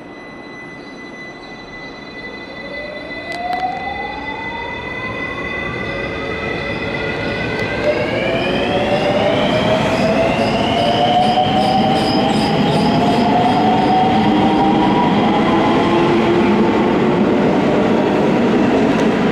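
Electric train accelerating away, its traction motors giving a whine that rises in pitch over about eight seconds and then holds steady, getting louder throughout, over the rumble of the wheels on the rails.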